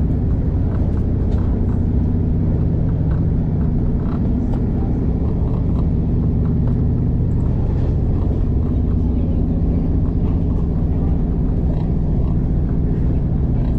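V/Line diesel passenger train running along the line, heard from inside the carriage: a steady low rumble with an engine hum, and occasional faint clicks and rattles.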